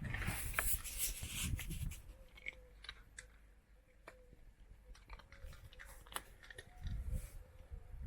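A cat chewing dry food with sharp, irregular crunches, busier in the first couple of seconds and again near the end, sparse in the middle.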